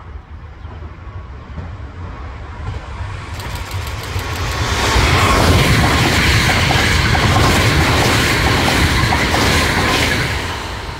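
Hankyu 5300-series electric train approaching and passing at speed. Its running noise builds to a loud rush of wheels on rails with repeated clicks, holds for about five seconds, and starts to fade near the end.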